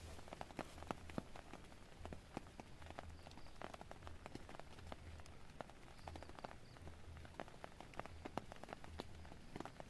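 Rain on a tent: scattered drops tapping the fabric in an irregular patter of sharp ticks over a faint hiss.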